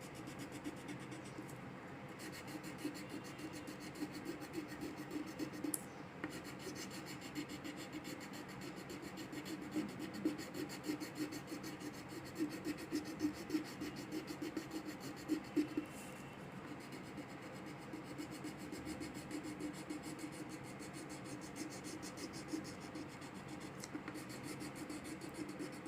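Crayon or colour pencil scratching on paper as a picture is coloured in, in a steady run of short up-and-down strokes, faint throughout.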